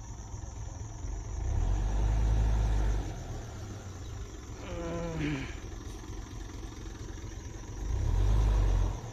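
Wind buffeting the microphone in two low rumbling spells, each lasting a second or so, one early and one near the end, with a short voice sound about halfway through.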